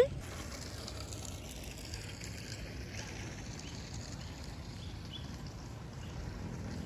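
Quiet outdoor ambience in the rain: a steady low background rumble with faint bird chirps now and then.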